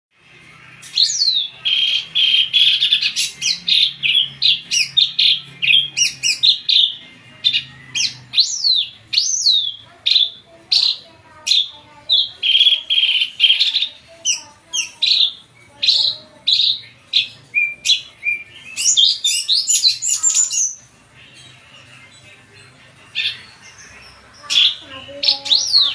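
Drongo singing energetically in a fast run of sharp whistles and chattering notes. It pauses briefly about three-quarters of the way through, then starts again.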